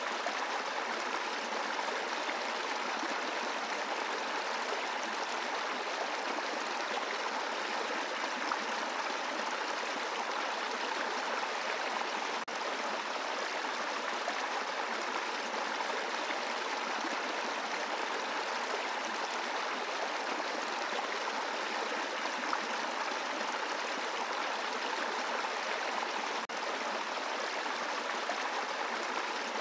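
Brook running over a bed of rocks: a steady, even rush of flowing water.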